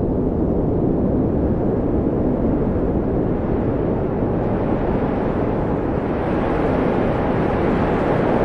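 Wind blowing steadily with a low, deep rush, swelling slightly brighter about six seconds in.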